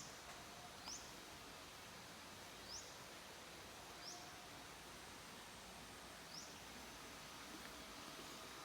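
A small bird calling faintly: a short, high, quickly rising chirp repeated about five times at uneven gaps of one to two and a half seconds, over a faint steady hiss.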